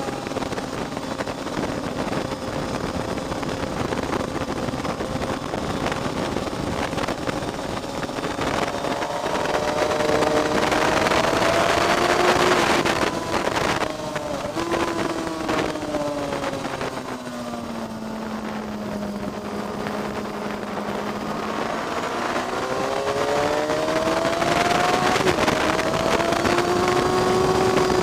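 Car engine heard onboard during a lap at a track day, with wind noise over it. Its pitch climbs under acceleration to a peak about halfway through, drops and sinks slowly to a low point as the car slows for a corner, then climbs again toward the end.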